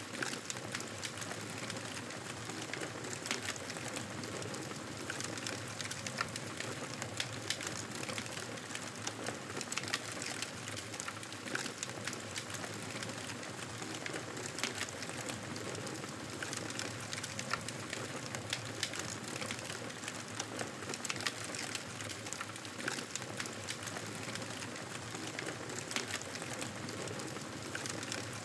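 Campfire burning, a steady soft hiss of flames with frequent sharp crackles and pops from the burning wood.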